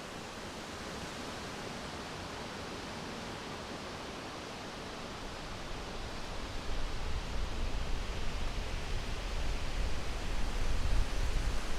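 Steady hiss of wind in the trees. From about halfway through, gusts buffet the microphone with an uneven low rumble that grows louder.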